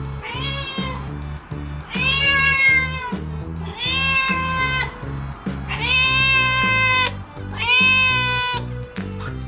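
A six-month-old cat meowing loudly five times, begging for food; each meow rises and then falls away.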